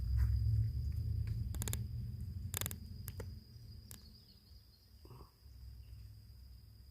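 An insect's steady, high-pitched drone, with a low rumble that is loudest in the first three seconds and then dies down, and a few sharp clicks in the middle.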